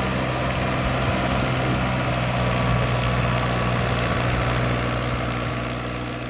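Diesel tractor engine running steadily with an even low hum, fading out near the end.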